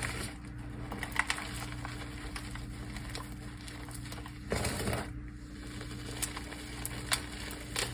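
A crunchy, dusty dried mudpie being crushed. There is one longer crunch about four and a half seconds in, with scattered crackles and clicks of crumbling pieces around it.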